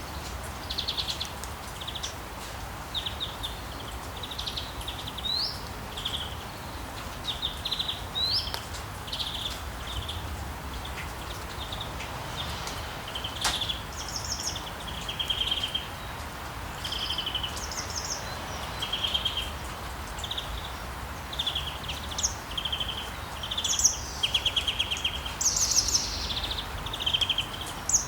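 Small songbirds chirping and twittering in short, quick trills, some notes rising, repeated throughout over a steady low background hiss.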